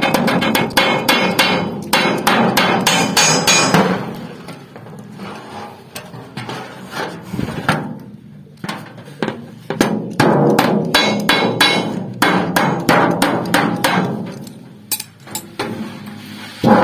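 Hand hammer striking sheet metal in rapid blows, several a second, as the seams of a pot are beaten closed. There are two long runs of hammering with a quieter stretch between them.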